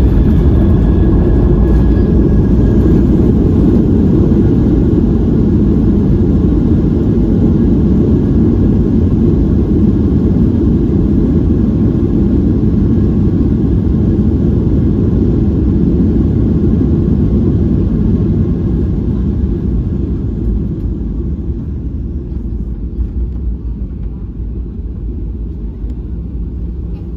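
Airliner engine and runway rumble heard inside the cabin during the landing roll: a loud, steady low rumble that eases off about twenty seconds in as the aircraft slows.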